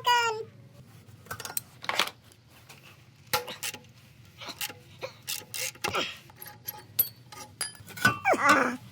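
A string of sharp clicks and light taps, scattered unevenly, with one cat meow falling in pitch near the end.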